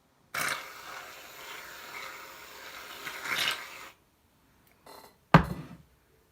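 Slime being mixed with shaving foam by hand, squishing. There is a noisy stretch of about three and a half seconds, then a short squish, and a sharper, louder one near the end.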